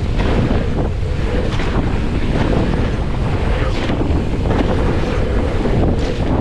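Heavy, steady wind buffeting a camera microphone on a fast mountain-bike descent, with a few short knocks from the bike riding over the trail.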